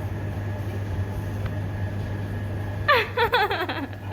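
Steady low hum and rumble, as of a vehicle underway, with a faint high steady whine. About three seconds in, a quick run of high cries falls in pitch.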